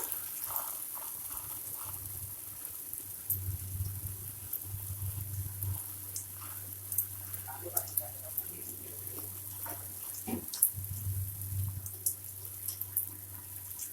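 Pet parakeet bathing: light splashing and dripping water with scattered small clicks, over a low steady hum, and a few short faint chirps.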